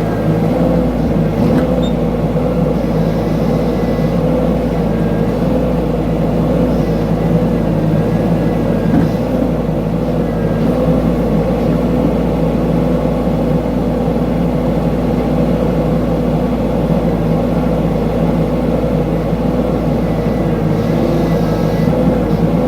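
Mini excavator engine running steadily, with a faint knock or two.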